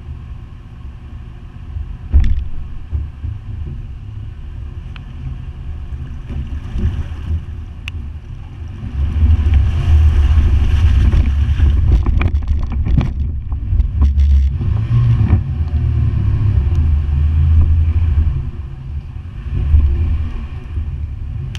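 Toyota FJ Cruiser's V6 engine running under load as the truck fords a river, with water rushing and splashing around it. The low rumble and wash swell loudly from about nine seconds in and ease off near the end, with a sharp knock about two seconds in.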